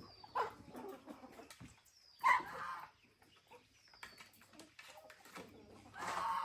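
Chickens calling, with a few separate calls and short high falling chirps about every two seconds.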